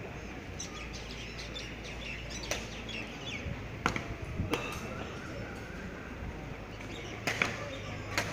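Small birds chirping now and then over a steady background murmur, with a few sharp clicks scattered through.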